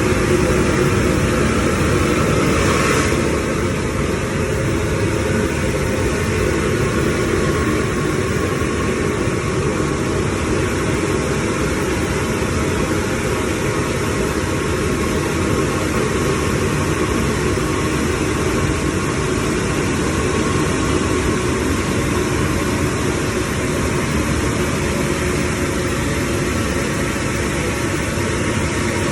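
Combination jetter/vacuum truck running steadily, a loud, unbroken machine drone. A brief hiss about three seconds in.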